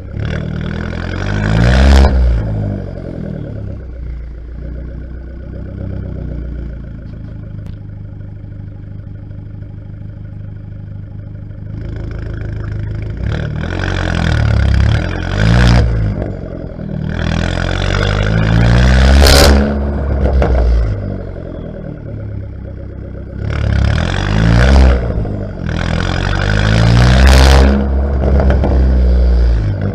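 Fiat Bravo T-Jet's 1.4 turbocharged four-cylinder exhaust, revved from idle: one rev about two seconds in, about ten seconds of steady idle, then four revs in a row, the highest about nineteen seconds in.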